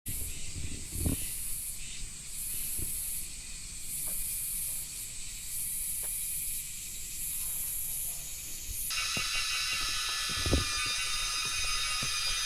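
High-pitched cicada buzzing that comes and goes in pulses about a second long. About nine seconds in, a louder, fuller cicada chorus starts suddenly and keeps going. A few soft low thumps sit underneath.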